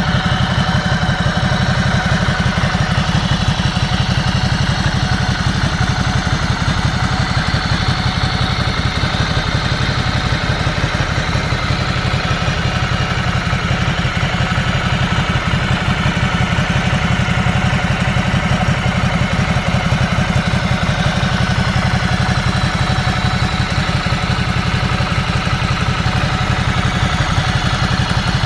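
Motorcycle engine idling steadily at an even speed, with no revving.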